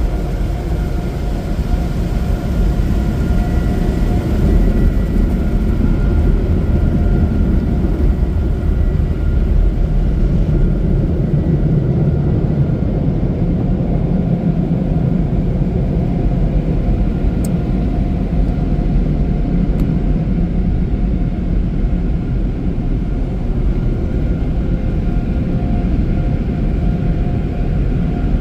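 Automatic car wash tunnel equipment heard from inside the car: a loud, steady roar with a deep rumble.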